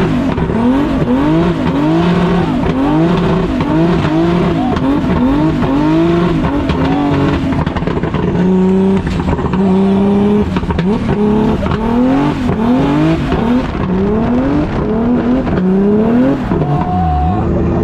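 Turbocharged BMW E46 M3 drift car's engine revving hard in quick, repeated rises and falls, about two a second, with tyre squeal as it drifts. It holds steady revs for a moment around the middle and settles to a steady lower note near the end.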